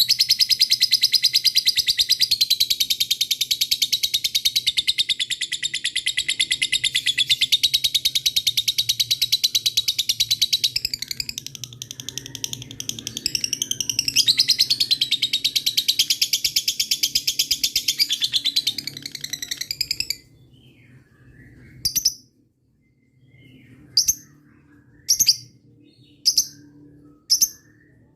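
Lovebird giving its long 'ngekek' call: an unbroken, very rapid high-pitched chattering trill for about twenty seconds, wavering briefly in the middle, then breaking off suddenly into single sharp chirps about a second apart.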